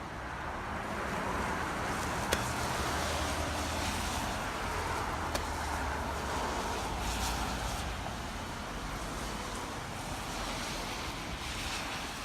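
Diesel vehicle engine running steadily, heard as a continuous rushing rumble, with two faint sharp ticks.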